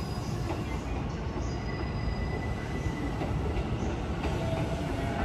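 JR East passenger train running on the rails, a steady rumble of wheels and running gear.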